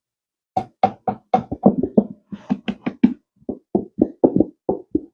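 A rapid run of short knocks, about four to five a second, from a container and utensil being knocked while blue cheese is added to a homemade dressing.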